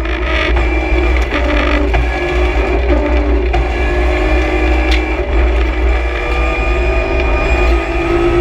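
BMW M3 E46 CSL's straight-six engine held at high revs under hard acceleration, heard from inside the stripped rally car's cabin, its pitch steady with small steps, over a heavy rumble of road and tyre noise. A single sharp knock sounds about five seconds in.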